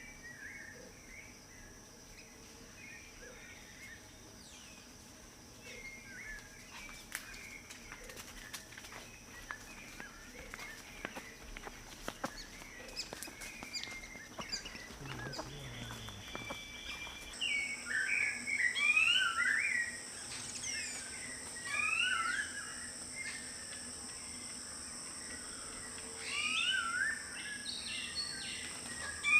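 Wild birds calling in short chirps and quick rising-and-falling notes over a steady high-pitched drone. The calls get louder and more frequent about two-thirds of the way through.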